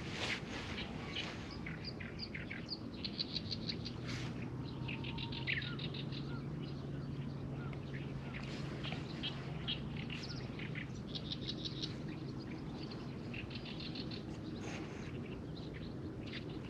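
Small birds singing: repeated runs of rapid, high chirps every second or two, over a faint steady low hum.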